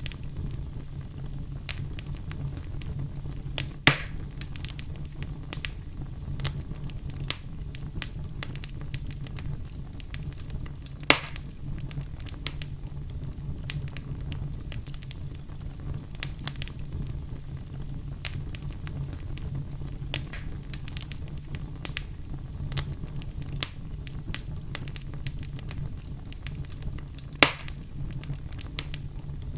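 Wood fire crackling in a fireplace: a steady low rumble with a constant scatter of small crackles, and three louder pops, about four seconds in, about eleven seconds in and near the end.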